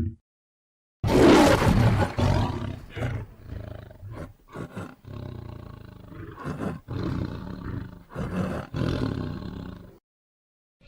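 Lion roar sound effect. A loud roar bursts in about a second in, followed by a string of shorter, weaker roars and growls. It cuts off shortly before the end.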